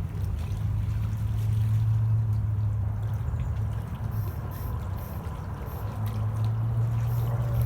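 A boat's motor droning low and steady on the river, swelling in the first few seconds and again near the end, with water trickling.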